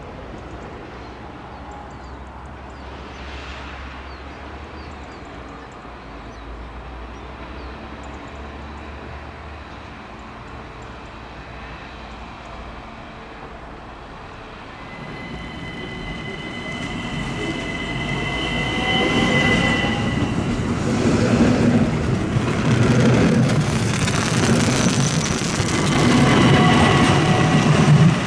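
An ÖBB Talent electric multiple unit rolling slowly along the platform. The first half is quiet; then the train grows louder with a high, steady wheel squeal for a few seconds, followed by a rhythmic clatter of wheels over the rail joints as it comes close.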